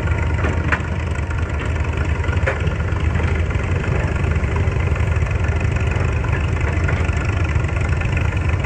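Excavator's diesel engine running steadily with a deep rumble, with two short clicks in the first few seconds.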